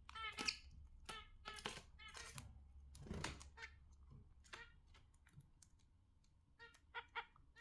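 Budgerigars chirping in short, faint calls mixed with scattered sharp clicks, busiest in the first half, with a few more chirps near the end.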